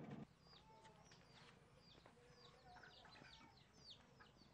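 Faint birds chirping: a quick run of short, high calls, each sliding downward in pitch, several a second. A low steady hum cuts off just after the start.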